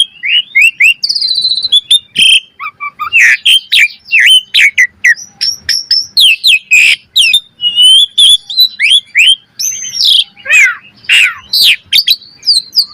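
Asian pied starling (jalak suren) singing a fast, varied song of slurred whistles, rising and falling notes and sharp clicks, strung together almost without pause.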